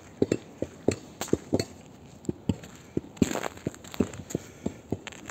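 Footsteps of a person walking on snow at a steady pace, about two steps a second, with a short swish about three seconds in.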